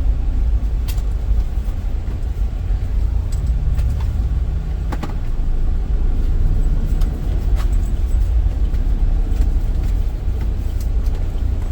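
Van driving along, heard from inside the cabin: a steady low rumble of engine and road noise, with a few light clicks and rattles.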